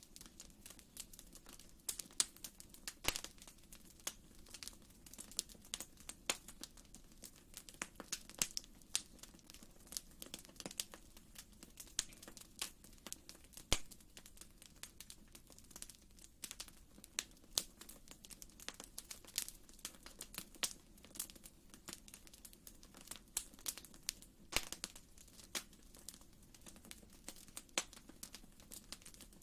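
Wood fire crackling in a fireplace: irregular snaps and pops, several a second, over a soft steady low background.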